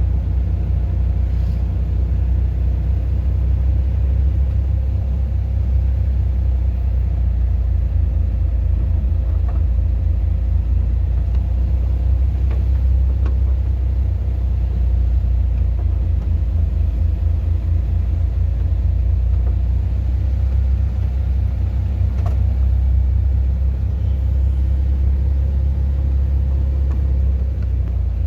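A car driving, with a steady low rumble from the engine and road.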